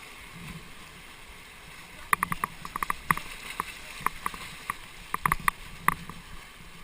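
Kayak on a river: a steady rush of moving water, with a quick run of sharp clicks and knocks from about two seconds in until about six seconds.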